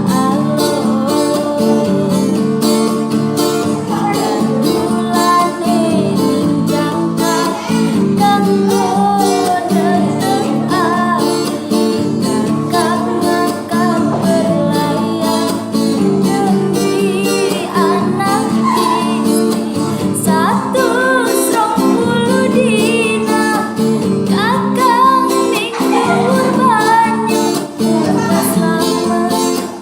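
A song sung over strummed acoustic guitar, the voice carrying a bending, ornamented melody line above steady chords.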